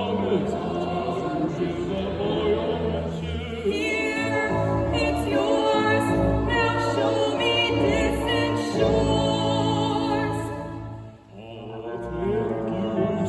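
Musical theatre number: voices singing with vibrato over instrumental accompaniment. The music drops away briefly near the end, then resumes.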